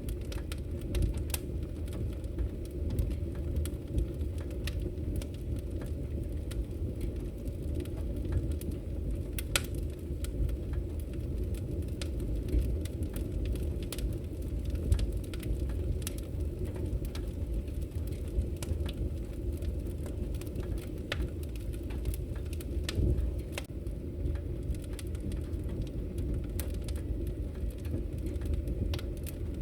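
Wood fire in a fireplace crackling, with frequent irregular small pops and snaps over a steady low rumble of the burning logs.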